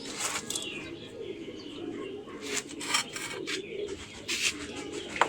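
Domestic pigeons cooing in the background, a low wavering murmur throughout, with a few short rustles and scrapes scattered across it.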